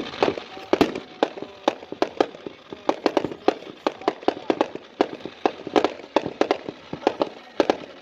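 Fireworks going off in quick succession: a continuous string of sharp bangs and cracks, about three a second, unevenly spaced.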